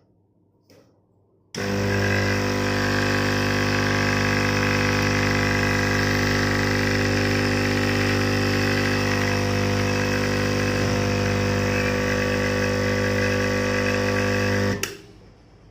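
Electromagnetic diaphragm air pump switched on about a second and a half in, running with a loud, steady buzzing hum, then switched off near the end.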